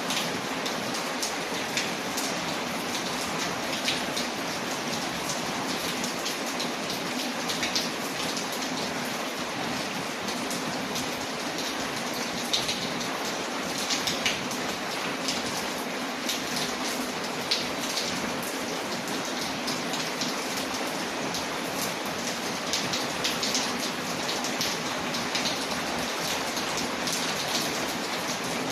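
Steady rain falling, with many scattered sharp ticks and pops from a crackling fire in a fireplace.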